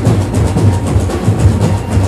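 Batucada samba percussion ensemble playing a fast, driving rhythm: deep bass drums pounding under rapid, crisp high strokes.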